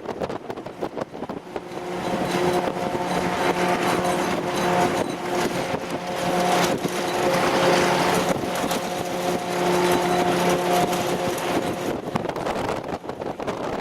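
Convoy vehicle running over road noise, with a steady pitched engine or drivetrain whine that comes in about two seconds in and holds, with brief dips, until near the end.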